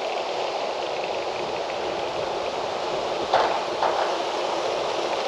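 Steady wind rushing through trees, with two brief louder gusts or rustles about three and a half seconds in.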